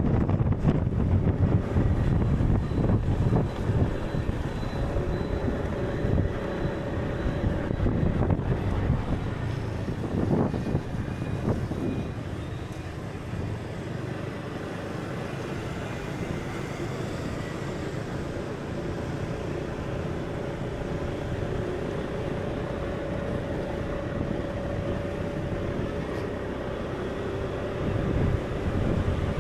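A steady low rumbling noise, like wind or surf, with a faint held tone over it. It is louder for the first dozen seconds, eases off, and swells again near the end.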